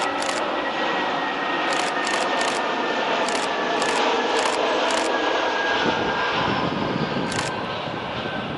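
Airbus A320 jet engines on its landing approach: a steady jet roar with a faint whine that falls slowly in pitch. Short, sharp high clicks come now and then over it, and a low rumble of wind on the microphone builds from about six seconds in.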